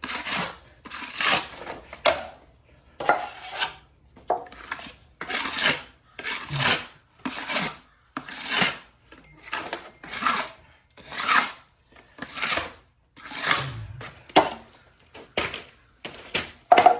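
A metal trowel or drywall knife scraping fast-setting joint compound across a plaster wall in repeated strokes, about one a second.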